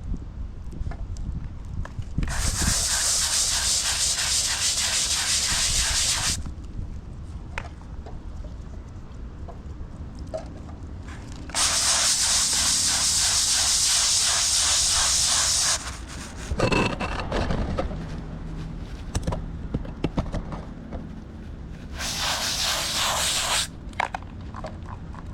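Water from a hose spraying onto a concrete driveway to rinse off scrubbed cleaning products. It comes in three bursts of a few seconds each, and each starts and stops abruptly.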